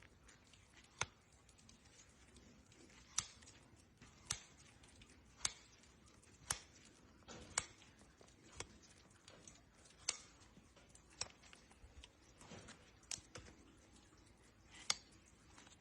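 A farrier's trimming tools cutting into hoof horn: a string of sharp, faint snips, about one a second.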